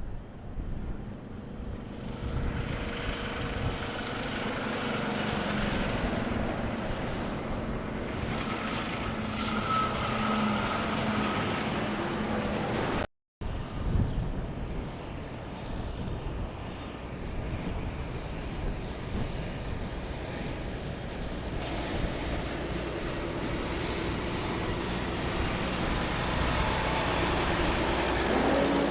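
Semi-truck diesel engines running as big rigs drive past, with a steady engine drone and road noise. A brief dropout to silence about halfway through breaks the sound, and it picks up again with another truck.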